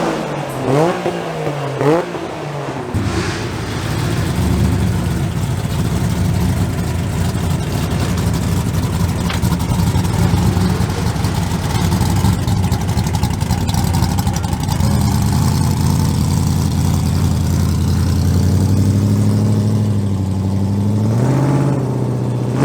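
Car engines revving in quick rises and falls, then a steady engine drone that climbs a step in pitch partway through and rises once more near the end, like a car pulling away and cruising.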